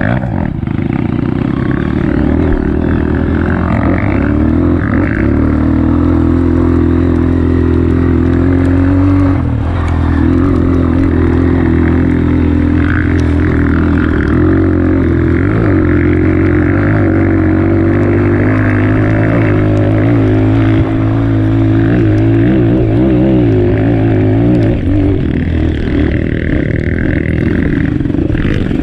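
Honda CRF230F trail bike's air-cooled single-cylinder four-stroke engine running continuously under load, its revs rising and falling a little as it rides.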